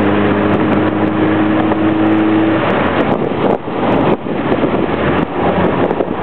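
Subaru Legacy's flat-four engine running hard, with heavy road and wind noise inside a car driven fast down a mountain road; the engine's steady note drops away about two and a half seconds in, followed by brief dips in the noise.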